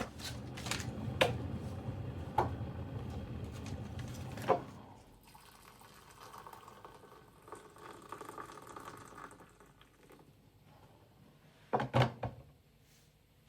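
Water running from a tap with a few clinks, shutting off after about four and a half seconds. Fainter handling follows, with a short cluster of knocks near the end.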